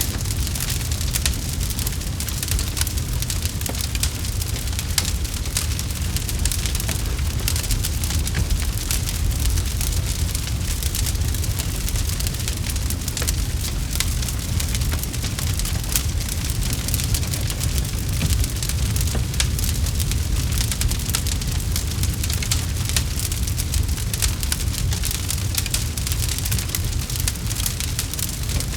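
Campfire burning steadily, with dense, irregular crackling and popping over a constant low rumble of flames.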